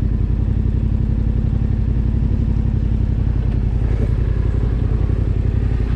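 Adventure motorcycle engine running steadily at low revs, close by, with no revving.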